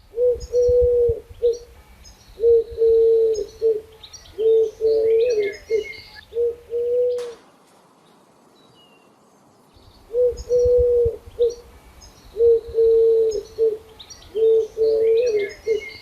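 A dove cooing: a run of low coos, a pause of about two and a half seconds, then the same run of coos again. Small birds chirp faintly and higher up in the background.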